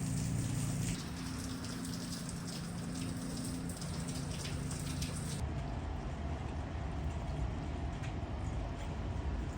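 Rain falling, many fine drops pattering over a steady low hum. About halfway through it cuts off abruptly to a duller, quieter background.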